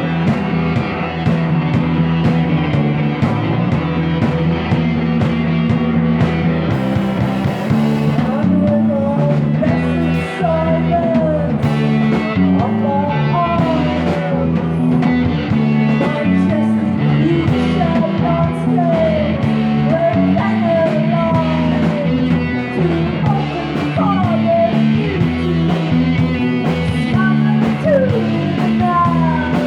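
Rock band playing live, a lead line of bending, sliding notes over a steady bass and the rest of the band.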